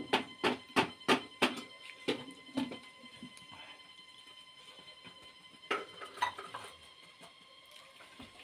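Close-up mukbang eating sounds: a quick run of wet smacks and clicks of chewing by hand-fed rice and oxtail for the first two and a half seconds, then a shorter burst about six seconds in.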